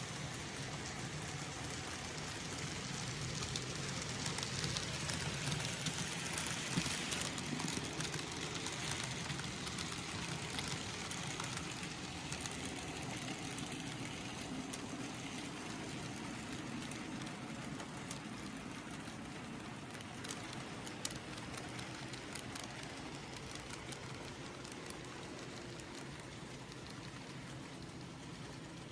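N gauge model trains running on the track: a steady small-motor hum and wheel rumble with many light clicks over the rail joints. It grows louder about four seconds in, then slowly fades.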